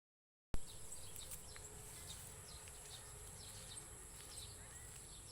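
Nature ambience: a steady high-pitched insect drone with many short, quick bird chirps over it, and a low rumble underneath. It starts about half a second in.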